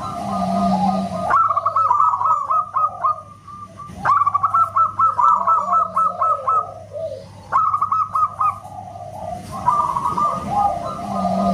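Zebra doves (local perkutut) cooing loudly in quick repeated runs of notes, several birds overlapping, with new phrases starting abruptly about one, four and seven and a half seconds in.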